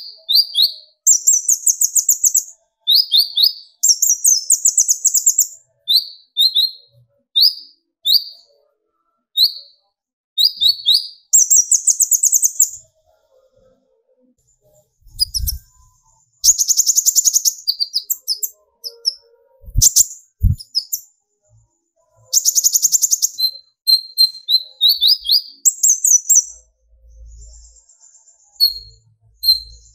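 A konin sunbird (kolibri ninja) calling hard in rapid high chirps. Short falling notes alternate with fast chattering trills, the 'tembakan' bursts that keepers play to stir a bird into calling. A few faint low thumps are heard about halfway through.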